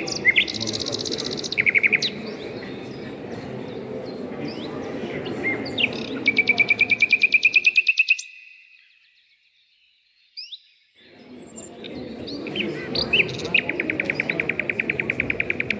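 Small songbirds singing: short chirps and rapid trills of evenly repeated notes over a low, steady background noise. The sound cuts out for a couple of seconds midway and then resumes.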